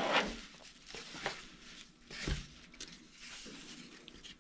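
Foam airplane parts and packaging being handled by hand: scattered rustles and scrapes with a few light knocks.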